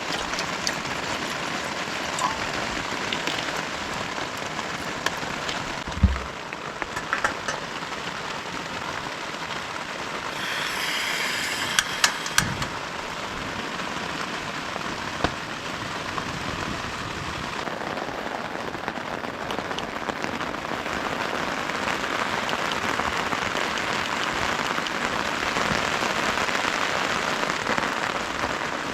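Heavy rain falling steadily, growing a little heavier in the second half. Now and then a knock or click stands out, the loudest a low thump about six seconds in and a quick cluster of clicks about twelve seconds in.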